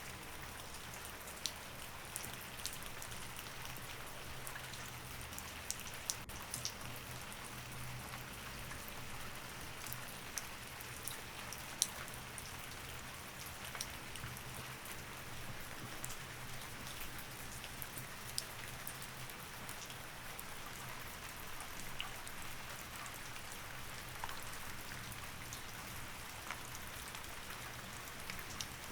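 Steady rain falling, an even hiss of rain with occasional sharper ticks and a faint low hum underneath.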